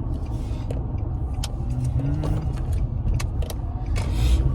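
Car driving on the road, heard from inside the cabin: a steady low engine and road rumble with a few light clicks and rattles, and a brief rising engine tone about two seconds in.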